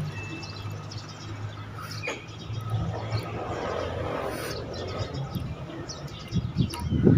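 Birds chirping in short calls over a low steady hum that fades away during the first few seconds; a few low thumps near the end.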